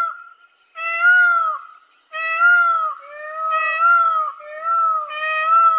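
An animal crying over and over: about six short, high, arching calls in quick succession.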